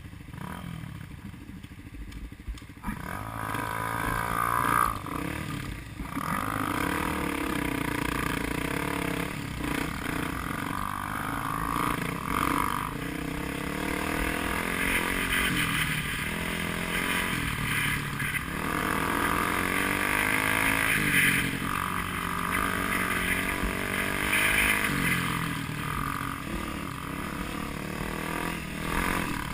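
Off-road enduro motorcycle engine revving up and down again and again, coming in loud about three seconds in.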